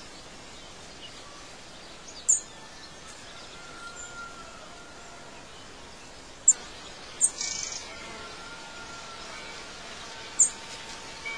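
Birds chirping over a steady faint hiss of outdoor ambience: four short, sharp high chirps spread a few seconds apart, with fainter whistled notes in between.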